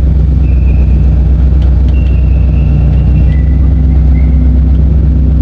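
BMW E36's swapped M60B40 4.0-litre V8 running at a steady engine speed, heard from inside the cabin. The owner suspects one cylinder is not firing.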